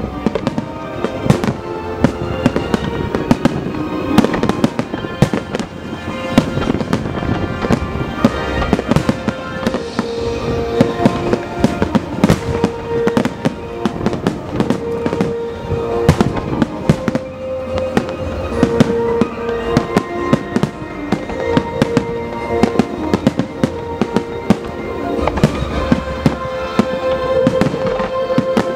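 Fireworks display: aerial shells bursting in quick succession, many sharp bangs with no pause, over music with long held notes.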